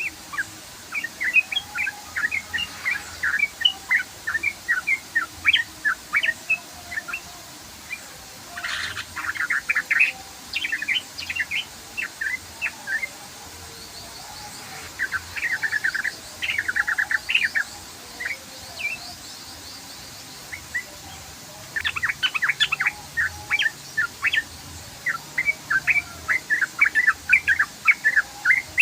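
Yellow-vented bulbul (trucukan) singing in long, rapid runs of short chirping notes, with brief pauses between the runs.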